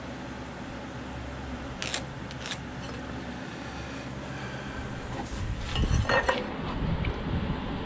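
Two sharp clicks, then a clatter and a few knocks about six seconds in, over a steady low hum: hand tools and lumber being handled while a post is marked out.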